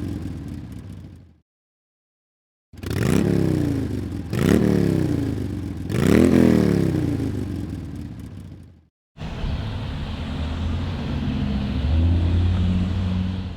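Motorcycle engine revving: the throttle is blipped about four times, the pitch climbing and falling each time, then the engine runs steadily.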